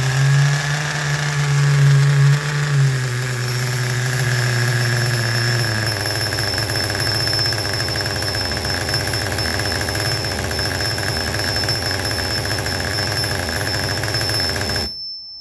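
Mugen Seiki MV12 nitro engine running, its pitch stepping down twice in the first six seconds, then running steadily with a thin high whine until it cuts off abruptly near the end.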